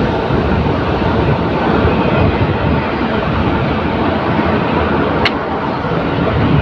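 Loud, steady rumbling noise of a moving vehicle, with one short sharp click about five seconds in.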